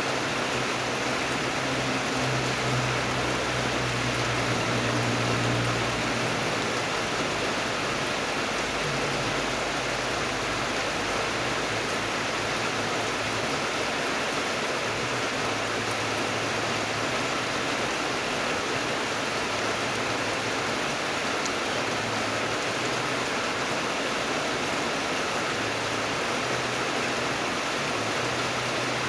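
Steady, even rain. A low hum swells for a few seconds near the start, then fades back under the rain.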